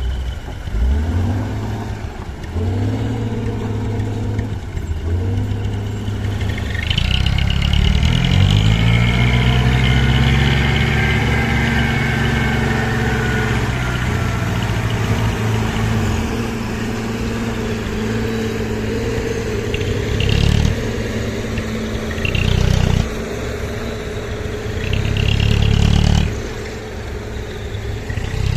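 Hino 300 dump truck's diesel engine running under load and revving repeatedly, its pitch rising and falling, with a long rev about a third of the way in and several short hard revs in the second half.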